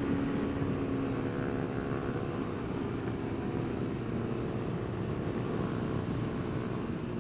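Small sportbike engine running steadily under way, heard from the rider's seat with wind rushing past the microphone. The engine eases off a little about a second in.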